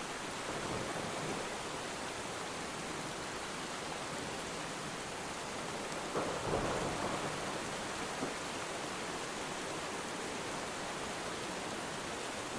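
Steady rainfall, an even hiss, with a brief louder swell about six seconds in.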